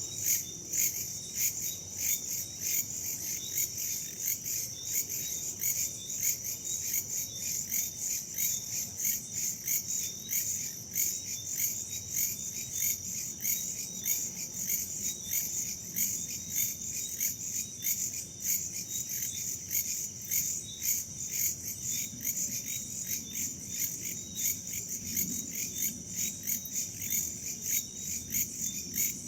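Night chorus of crickets and other insects, a dense high-pitched trilling that pulses rapidly and evenly, with a faint low rumble of wind beneath.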